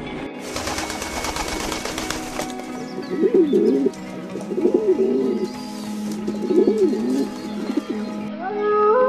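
Feral rock pigeons cooing in three or four low, rolling bouts, over steady background music. Near the end a wolf's howl begins, rising and then held.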